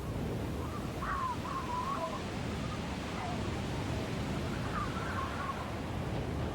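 Steady low wind rumble, with a bird calling over it in short gliding cries: a cluster about a second in, a fainter one around three seconds, and another around five seconds.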